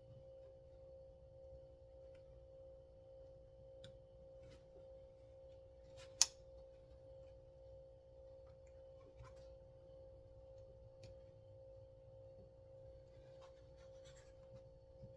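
Faint clicks and small scrapes of parts being handled while working on a chainsaw's recoil pull starter, with one sharp metallic click about six seconds in, over a steady background hum.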